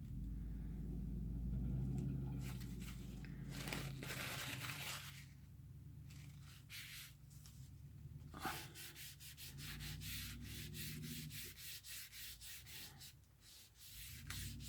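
Rubbing and scratching on paper close by, in a quick run of short strokes in the second half, over the low steady engine hum of a plow truck that fades out partway through.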